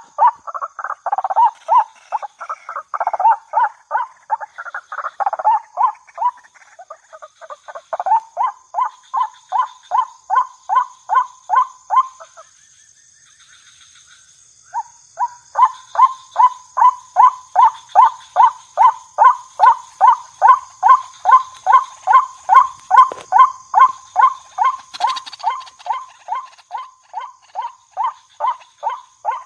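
White-breasted waterhen (ruak-ruak), a female, calling: the first few seconds are a jumble of harsh overlapping calls, then it settles into a steady run of repeated notes about twice a second. It breaks off for about two seconds midway, then resumes. A faint steady high tone sits behind it.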